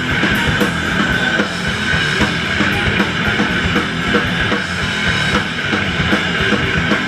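A live hardcore punk band playing: distorted electric guitar and bass over fast, pounding drums, recorded loud in a small venue.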